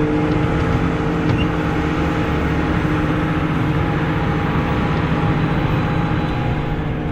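Heavy diesel harvest machinery running steadily under load: a constant deep engine drone with a steady hum that does not change pitch.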